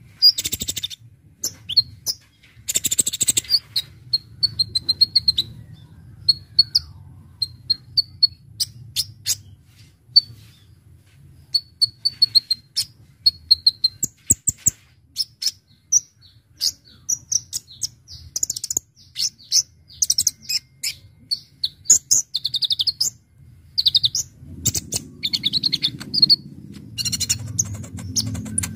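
Kolibri ninja (Konin) sunbird singing: a long run of sharp, high chirps and short quick trills in rapid, irregular bursts.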